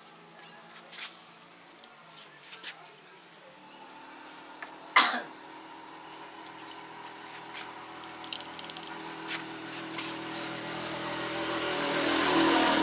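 A short hissing burst of WD-40 aerosol spray about five seconds in, among a few faint clicks. From about six seconds on, a steady hum with a high whine grows steadily louder toward the end.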